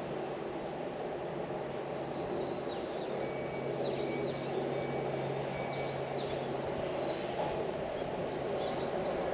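Outdoor garden ambience: a steady low background hum, with a small bird giving several short, high, arching chirps through the middle.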